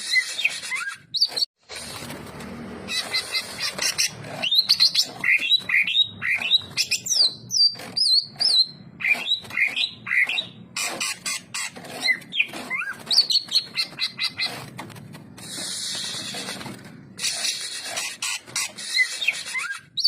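Green leafbird (cucak ijo) singing energetically: a fast, varied run of whistled notes and chirps, broken by brief sudden gaps.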